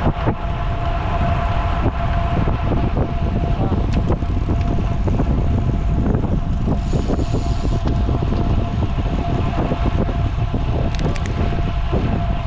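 Wind buffeting the microphone of a camera on a road bike riding fast, a steady rush with a faint steady hum running through it.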